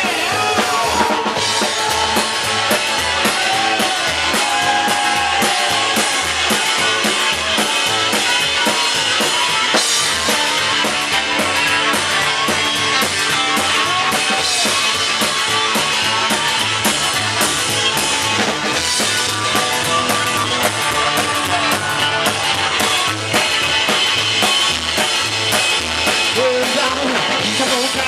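Live rock and roll band playing an instrumental break: drum kit keeping a steady beat with bass and guitar, and a lead line with bending notes over it.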